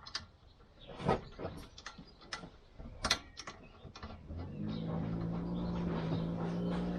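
Scattered metal clicks and knocks as brake caliper bolts are lined up and started by hand. From about four seconds in, a steady, even-pitched motor hum sets in and holds.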